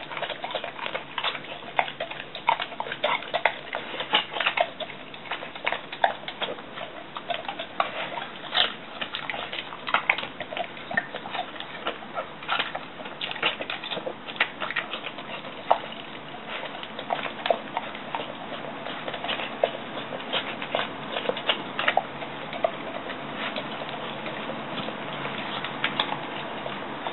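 A pet eating its food: a steady run of small, irregular crunching and clicking sounds of chewing and of mouth against bowl.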